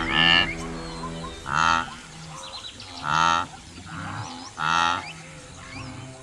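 Baboon barks: four loud, short calls about a second and a half apart, over background music with held notes.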